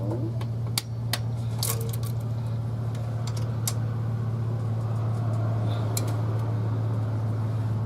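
Metal tools and parts clinking lightly, a scattering of sharp clicks, over a steady low hum.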